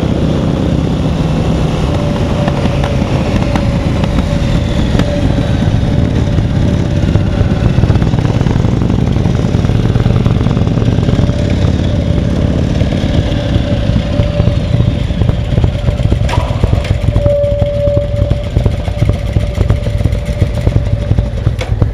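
S&S Pan 93 (1,530cc) air-cooled V-twin running on a Headbanger Woodstock Boogie bobber under way, a dense rapid pulsing with a steady tone over it. In the last few seconds the pulses come more unevenly.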